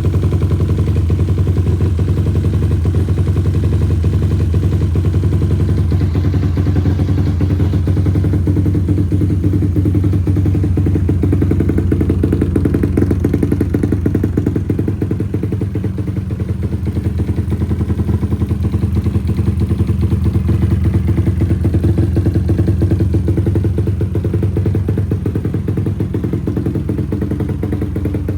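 SYM VF 185 motorcycle's single-cylinder four-stroke engine, fitted with a 67 mm big-bore kit, running steadily at idle while it warms up after a cold start. The engine speed holds even, with no revving.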